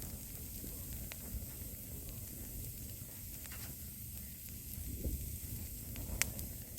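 Wood fire crackling over a steady hiss, with a few sharp pops: one about a second in and another near the end.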